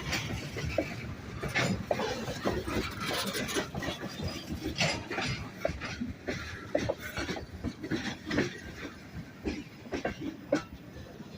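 Train rolling past, its steel wheels knocking irregularly over rail joints, with scattered metallic clanks over a low rumble that fades slightly toward the end.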